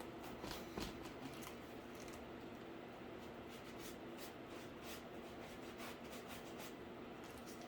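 Faint, irregular scratching and rustling strokes with a couple of light knocks under a second in, over a steady low hum.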